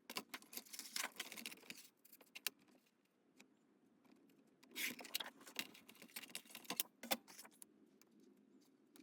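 Die-cut cardstock pieces being handled on a craft table: light clicks, taps and rustles in two short flurries, the first at the start and the second about five seconds in.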